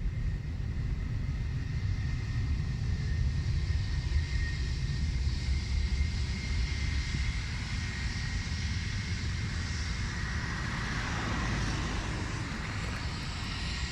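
Jet airliner's engines going past: a low rumble with a steady whine over it that drops in pitch about ten seconds in.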